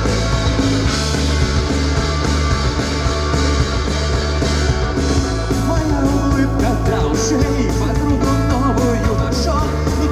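Rock band playing live: drums, bass and guitars with a steady beat. A wavering melody line comes in about halfway through.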